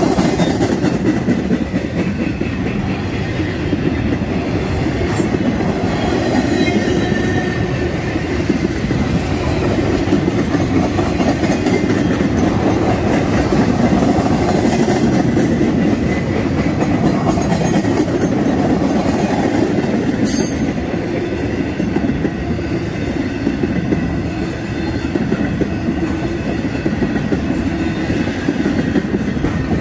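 A long string of empty TTAX intermodal flatcars rolls past at close range, its wheels clacking over the rails and the crossing. It makes a loud, steady rumble that holds for the whole stretch.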